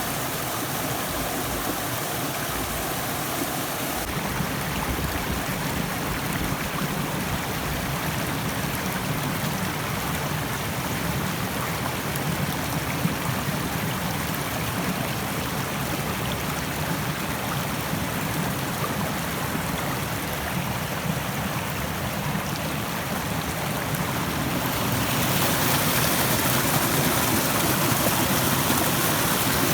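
Rushing stream water, a steady even wash. About 25 seconds in it becomes louder and more hissy.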